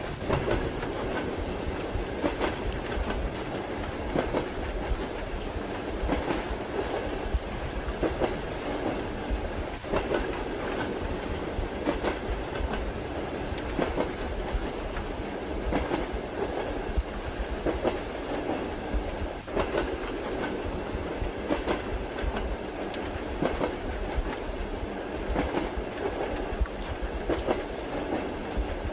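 Passenger train running steadily, heard from inside a compartment: a constant rumble with the wheels clacking over rail joints every second or two.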